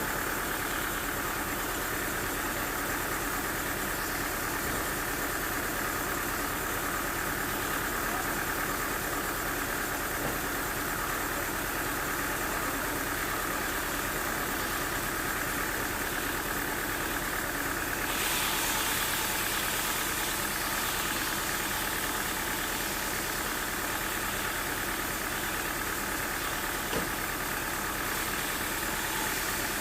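Sawmill machinery running steadily with a constant drone. About two-thirds of the way through, a hissing sound grows stronger, and a single short knock comes near the end.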